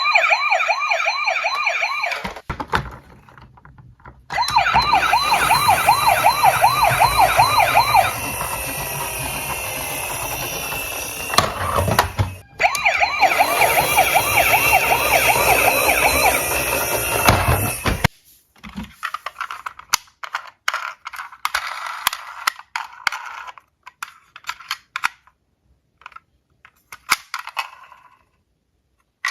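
Emergency-vehicle siren sound, a fast rising-and-falling wail, in several stretches with short breaks. After about eighteen seconds it stops and gives way to scattered sharp clicks and clatters of small diecast toy cars.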